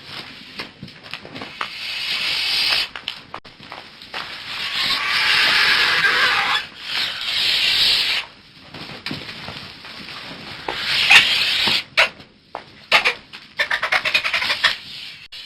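Birds calling with harsh, rasping squawks in several long bursts, then a quick run of short, sharp calls in the last few seconds.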